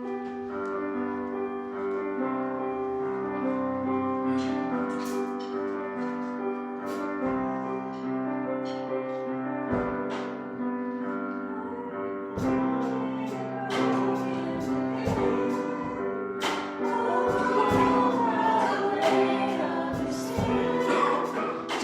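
Church worship music starts up: sustained keyboard chords, with regular percussion strikes coming in about twelve seconds in. Voices begin singing near the end.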